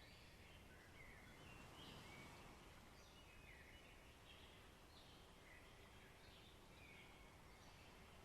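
Faint forest ambience: a bird giving short, repeated chirping calls, about one a second, over a steady low hiss.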